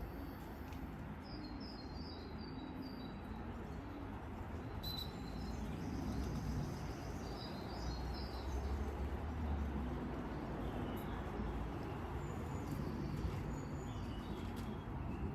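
Small songbirds chirping in short runs of high notes, over a steady low background noise.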